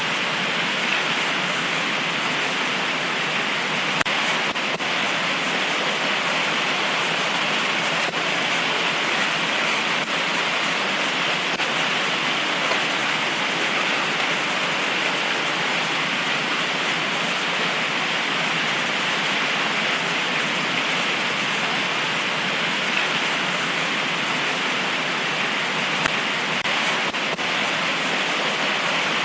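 Heavy tropical rain pouring down steadily, with a couple of sharper drop hits standing out briefly.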